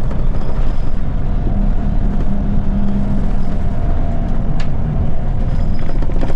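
Scania L94UB city bus with a ZF automatic gearbox, its diesel engine running steadily under way. One low tone strengthens for about a second midway, and a single sharp click comes about four and a half seconds in.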